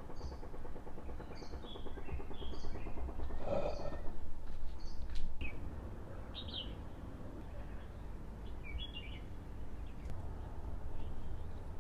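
Small birds chirping in short, separate high notes: a run of calls in the first few seconds, then single calls about halfway and near the end, over a low steady rumble.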